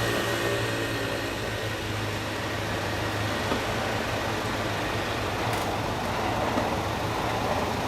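A motor vehicle engine running steadily: a low hum under broad, even noise.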